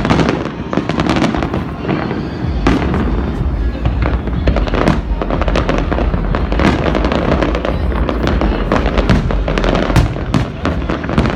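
Aerial fireworks display: a dense string of shell bursts and crackling, many sharp bangs close together. A steady low rumble sets in about two seconds in.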